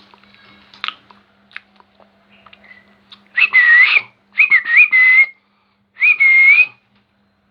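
Young pet parrot giving three short whistling calls with a wavering pitch, after a few faint clicks.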